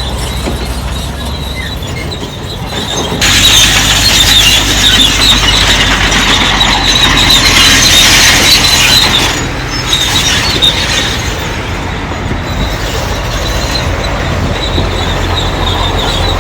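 Diesel earthmoving machinery running, with a loud, high metallic squeal and grinding that starts about three seconds in and dies away around nine seconds.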